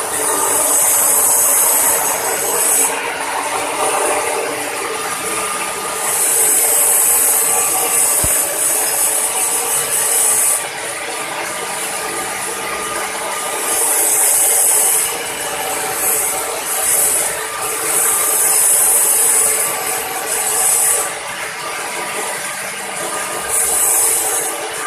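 TIG welding arc running with a steady hiss and buzz. A bright, high hiss swells and fades in stretches of a few seconds.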